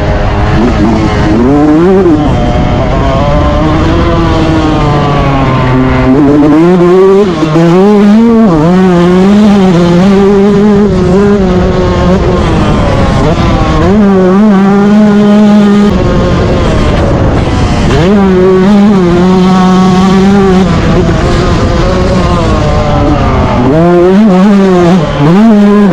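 Yamaha YZ125 two-stroke motocross engine at race pace, revving up and dropping back again and again as the throttle opens and closes through the gears, its pitch wavering and gliding up and down.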